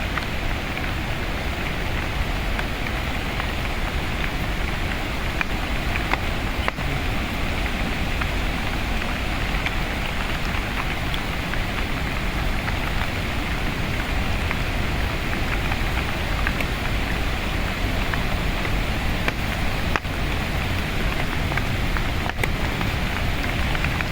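Steady monsoon rain falling, with drops pattering on surfaces.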